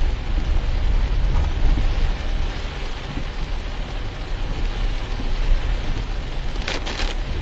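Car driving in rain: a steady low rumble of road noise under an even hiss of rain and water from the tyres, with two brief louder hisses near the end.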